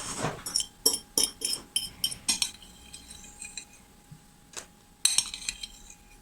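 Light clinks and taps of a utensil against a dish, several in the first two and a half seconds and another quick cluster about five seconds in.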